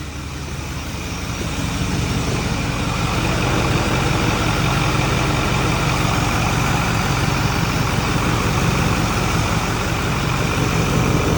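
Ford 6.4 Power Stroke V8 turbodiesel idling, growing louder over the first few seconds and then steady. The oil cap is off to vent crankcase pressure, a test for leaking turbo seals.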